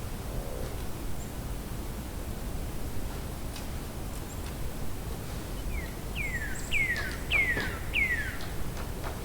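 A distant woodpecker feeding: a few faint, scattered taps over a steady outdoor background hiss. About six seconds in, a bird gives five quick call notes, each sliding downward in pitch, about half a second apart; these are the loudest sound.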